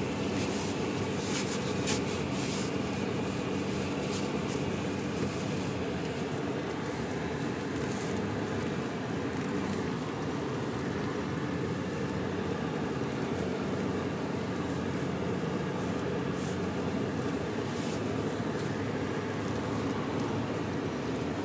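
Vehicle driving through deep snow, heard from inside the cabin: a steady drone of engine and tyres with a low hum, and a few faint ticks.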